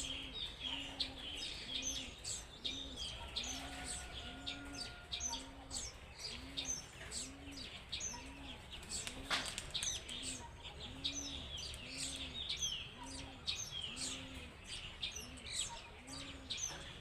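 Many small birds chirping over one another. Beneath them, a low hooting note repeats steadily about once a second. A single sharp click comes about nine seconds in.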